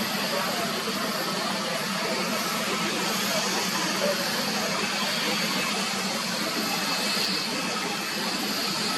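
Jet airliner engines running steadily: an even rush with a faint high whine above it, holding level throughout.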